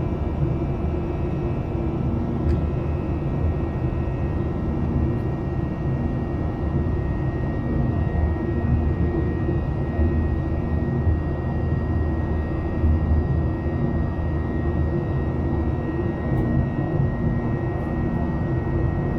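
Boeing 737-800's CFM56 jet engines heard inside the passenger cabin: a steady low rumble with a faint constant whine above it.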